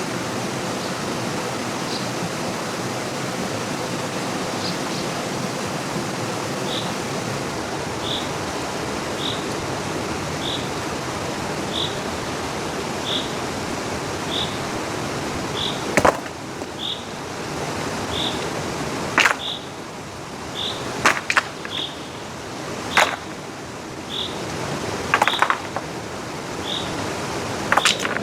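Steady rushing of a stream, with a short high chirp repeating about once a second. About halfway through, the water sound drops a little and a series of sharp knocks and snaps begins.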